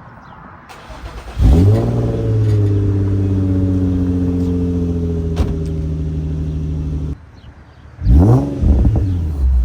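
Infiniti G35's VQ 3.5-litre V6 fitted with test pipes (catalytic converters removed) and an Invidia Gemini exhaust, revved sharply and held up for about five and a half seconds before dropping off suddenly. Two quick rev blips follow near the end.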